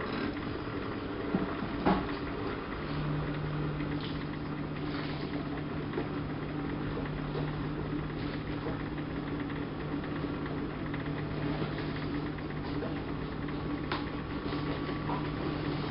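Siemens Siwamat IQ front-loading washing machine running mid-cycle. Two short knocks come in the first two seconds, then a steady low hum starts about three seconds in and holds over the machine's running noise.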